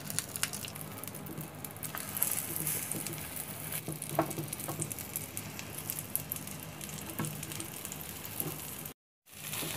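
Egg omelette sizzling in a butter-and-oil mix in a frying pan, with light scrapes and taps of a spatula as the omelette edge is folded over the bread. The sound drops out briefly near the end.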